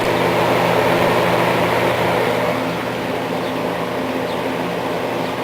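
Eskimo two-speed box fan with a plastic blade running on high: a steady rush of air over a low electric motor hum.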